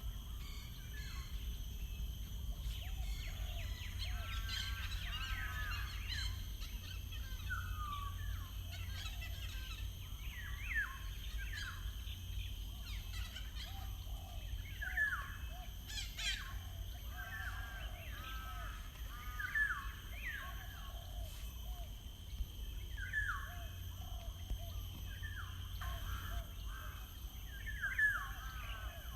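Several songbirds calling and singing, with short chirps and quick slurred whistled notes repeating throughout over a steady low background rumble.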